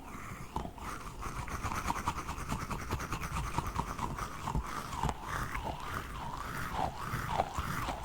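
Small squishy toy octopus being squeezed and kneaded by hand close to the microphone: wet, crackly squishing that settles into a steady rhythm of about two squeezes a second in the second half.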